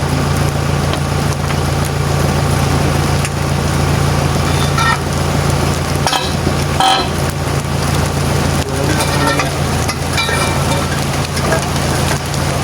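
Diesel truck engine idling steadily, with a constant hiss over it.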